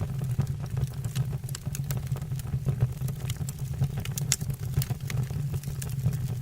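Wood fire burning in a fireplace: firewood crackling with many short, irregular snaps over a steady low rumble.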